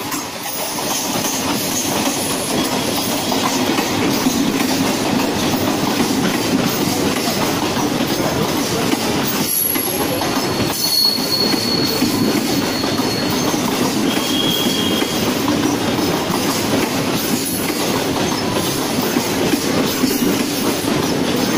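Mumbai suburban electric local train running past on the tracks, a steady rumble of its wheels on the rails, with two brief high squeals from the wheels about halfway through.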